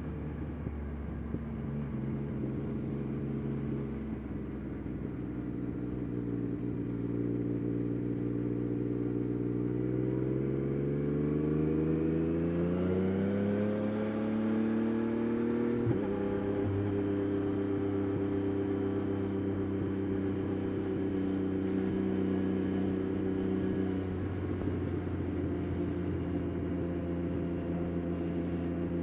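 Yamaha Tracer 9 GT+'s CP3 inline three-cylinder engine through a Roadsitalia titanium exhaust, under way: it runs steadily, then the revs climb for several seconds, drop suddenly about halfway through at an upshift, and it settles into steady cruising.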